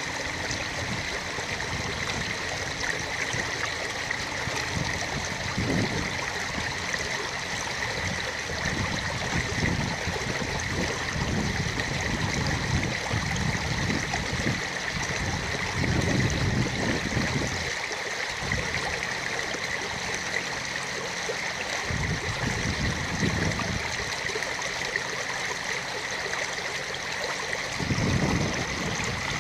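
Running water of a stream, a steady rushing with irregular low rumbles every few seconds.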